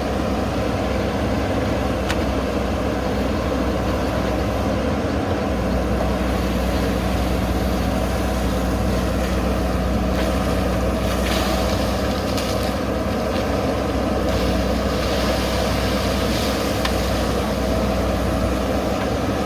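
Backhoe loader's diesel engine running steadily, its note shifting slightly about five seconds in, with stretches of hiss over it in the second half.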